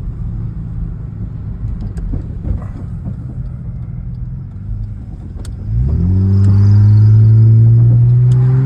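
Vehicle driving with a low road rumble and a few light knocks; about six seconds in, the engine note jumps up loud and keeps climbing slowly as it accelerates.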